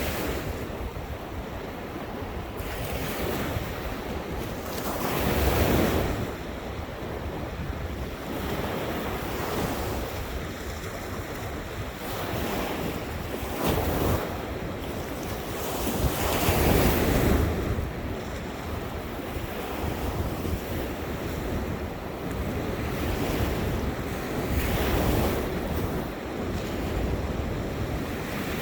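Ocean surf washing onto a beach, waves swelling and breaking every few seconds, with wind buffeting the microphone.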